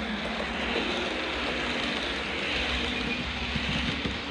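Electric multiple-unit passenger train passing at speed: a steady rushing and rumbling rail noise that swells a couple of seconds in.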